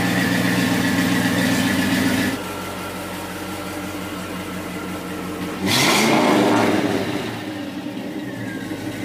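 Classic car engine idling steadily, its note dropping abruptly about two seconds in. Past halfway it revs up sharply for about a second and a half, then settles back to a steady idle.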